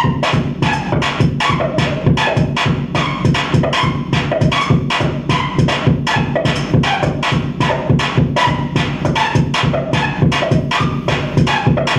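Loud electronic noise music with a fast, regular, harsh percussive pulse of about four hits a second over a steady low drone.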